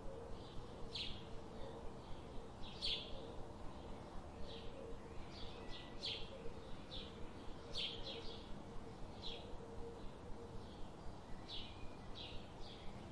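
Birds chirping: short high chirps about once a second over a steady background hiss and a faint low hum.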